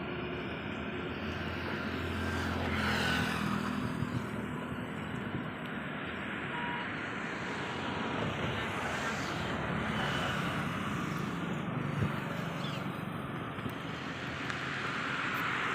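Road traffic passing: a steady rush of vehicles with a low engine hum, swelling and easing a few times as vehicles go by.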